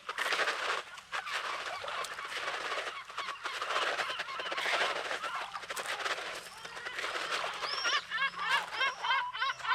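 Sea waves washing onto the beach, then from about eight seconds in a bird calling in a quick series of short, rising-and-falling notes over the surf.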